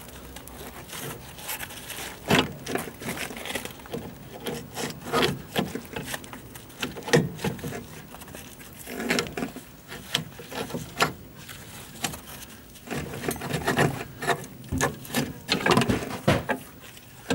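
Irregular metal knocks, clicks and scraping as a car's front drive shaft is worked out of the wheel hub by hand.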